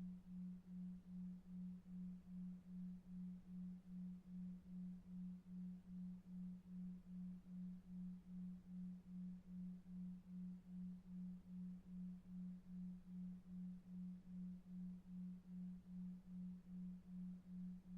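Soft low pure tone pulsing on and off very evenly about two and a half times a second: a 2.5 Hz delta-wave pulsed tone for sleep, over faint brown noise.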